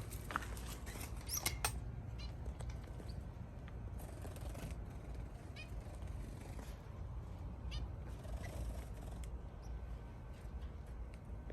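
Small birds at a feeder: scattered short chirps and clicks over a steady low background rumble.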